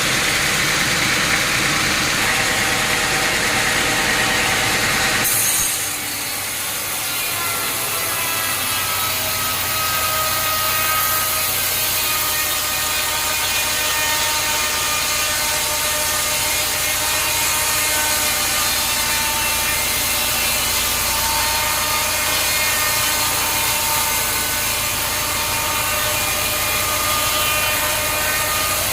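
Sawmill saw cutting through a log. The sound changes abruptly about five seconds in to a whining cut with several wavering tones over the noise of the blade.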